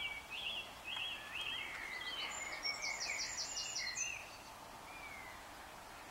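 A songbird singing: a series of short repeated phrases, with a quick run of high notes about two and a half seconds in, stopping about four seconds in, over a steady background hiss.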